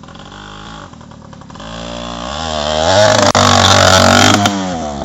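Yamaha 80cc dirt bike's two-stroke engine revving up as the bike sets off. The engine speed climbs for a second or so, holds high and loud, then drops away near the end.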